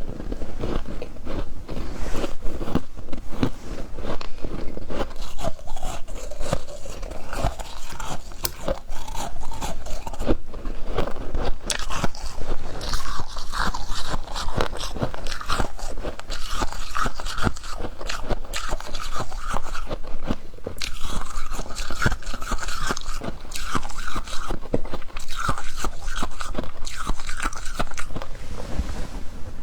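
Close-up crunching and chewing of humidifier ice in big bites, with dense crackling throughout. A squeaky sound runs under the chewing from about the middle onward.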